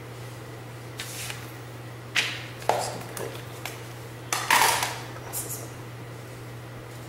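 A series of short clicks and clatters of small hard objects being handled, the loudest about halfway through, over a steady low hum.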